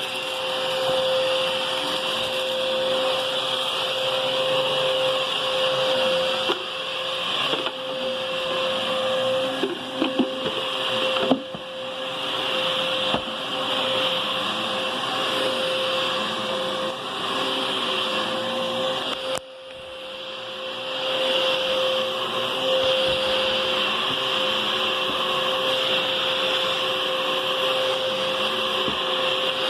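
Hoover bagless cyclonic upright vacuum cleaner running steadily with a motor hum and airflow hiss as it is pushed over the floor. A few clicks and rattles near the middle come from debris being sucked up. About two-thirds of the way through, the sound drops suddenly and builds back up.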